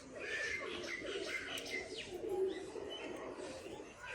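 Faint bird calls: low cooing with light chirps.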